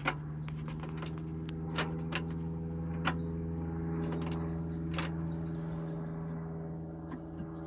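A series of sharp clicks and light knocks from the ignition key and switches being worked on a dead dash, over a steady low hum.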